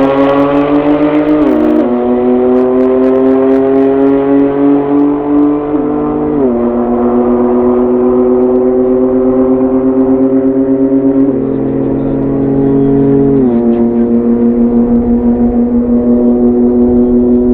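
Nissan GT-R R35's twin-turbo V6 under full-throttle acceleration, its pitch climbing slowly in each gear and dropping suddenly at each upshift, several times over the run.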